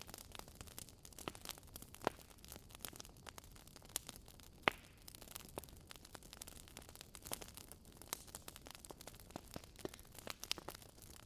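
Wood fire burning in a fireplace: a faint hiss of flames with irregular sharp crackles and pops, one pop louder than the rest about halfway through.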